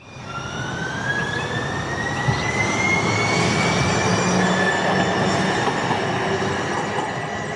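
Streetcar running on its rails, with a rumble and a high electric whine that rises slowly in pitch during the first few seconds, as when the car picks up speed.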